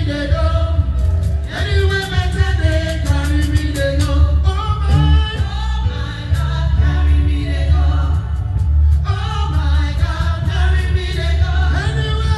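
Live gospel band playing with several singers, heavy bass underneath and drums with quick runs of cymbal strikes about a second in and again past the middle.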